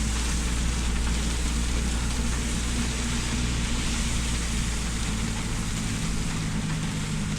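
Heavy rain falling in a steady, even hiss, with a steady low hum underneath.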